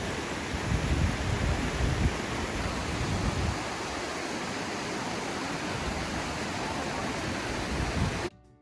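Steady rushing roar of a large waterfall, with some low rumbling in the first few seconds. It cuts off suddenly near the end.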